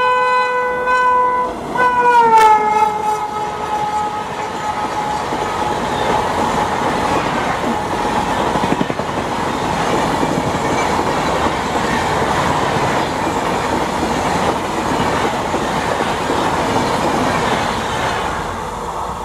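WAP-7 electric locomotive hauling a Rajdhani Express at speed: its horn blows, breaks briefly, then sounds once more with a falling pitch as the locomotive passes about two seconds in. The coaches follow with a steady rushing rail clatter that fades near the end.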